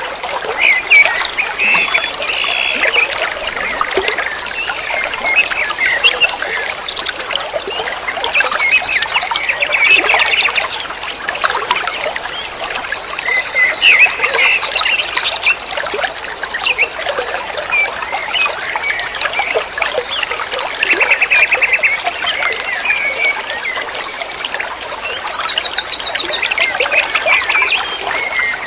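Songbird singing in a continuous, rapid chatter of varied chirps and whistles, with short fast trills now and then, the loudest near the middle and the end.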